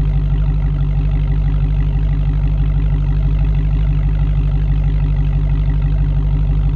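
Dodge Hellcat's supercharged 6.2-litre Hemi V8 idling steadily through its exhaust, a low, even pulsing with no revs.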